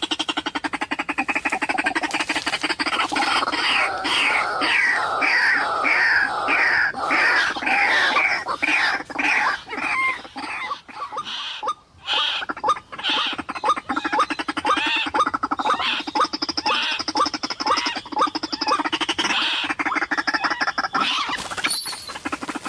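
White-breasted waterhen calling loudly: a fast run of repeated croaking notes, with a brief break about twelve seconds in before the calling resumes.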